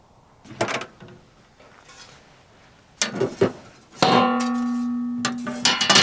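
Metal camping gear being handled: a knock, a brief clatter, then one loud clang that rings on steadily for nearly two seconds, followed by quick further knocks.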